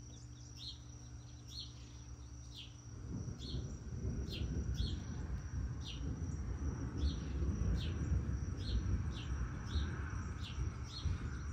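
A bird chirping over and over, short high downward chirps about once or twice a second, over a faint steady high insect-like whine. About three seconds in, a low rumble rises and stays under the chirps.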